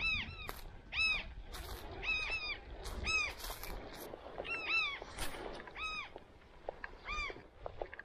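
Birds calling: about ten short, ringing calls, each rising and falling in pitch, repeated every half second to a second, sometimes in quick pairs, and growing fainter near the end.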